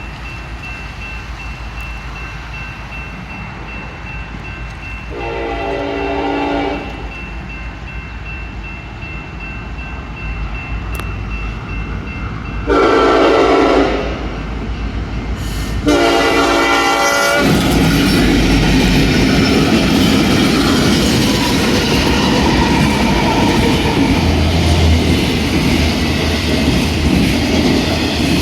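Diesel freight train approaching a grade crossing: the EMD SD70ACe locomotive sounds three horn blasts of about a second and a half each, then passes close with its engine rumbling and wheels clattering over the rails.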